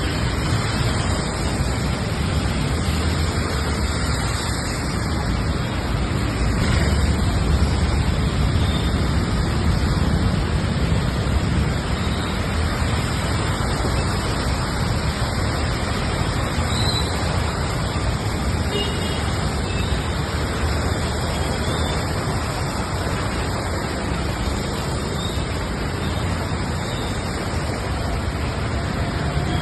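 Heavy rain falling steadily on a road with traffic, a loud even rushing noise over a low rumble of vehicles.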